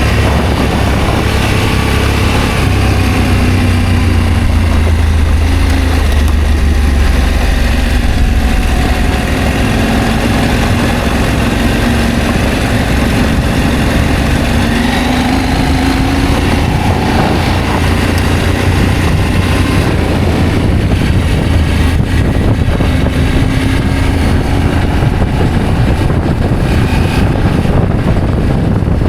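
Adventure motorcycle engine running under way with a strong low rumble, its pitch slowly rising and falling with the revs.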